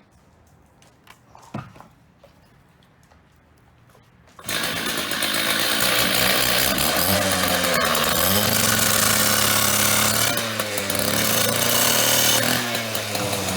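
A power cutting tool starts about four and a half seconds in and runs loud and steady, its pitch dipping now and then as it bites into the steel screws on the back of a payphone. Before it starts there are only a few faint handling knocks.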